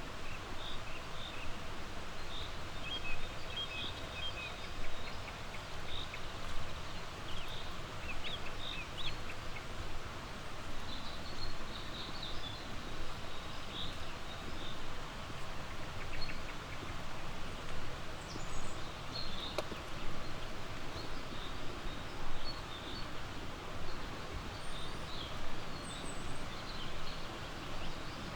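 Small songbirds chirping, with short high calls and a quick trill about eight seconds in, over a steady rushing background noise.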